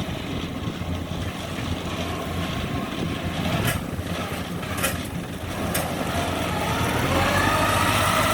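Combine harvester's diesel engine running steadily, with a few sharp clicks in the middle; near the end it grows louder and takes on a whining tone.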